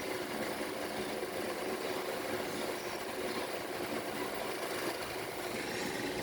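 Steady low drone of a running motor or engine in the background, even throughout, with no distinct knocks or clicks.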